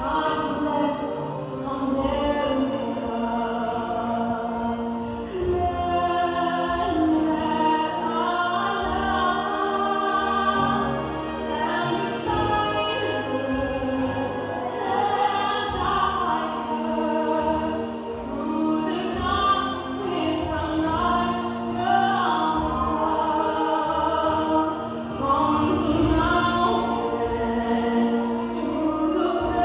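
Choral music: voices singing long held notes over an accompaniment, the sound of a patriotic anthem.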